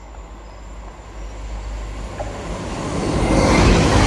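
Class 180 diesel multiple unit passing through the station without stopping: the rumble of its engines and wheels on the rails grows steadily louder from about a second in, and is loudest near the end as it runs past.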